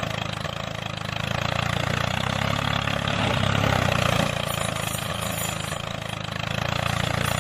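Small motor of a DIY mini tractor running steadily, easing slightly about four seconds in and picking up again near the end.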